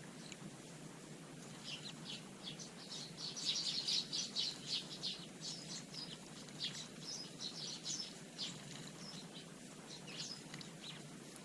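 Small garden birds giving a rapid run of short, high chirps, busiest a few seconds in and thinning out near the end.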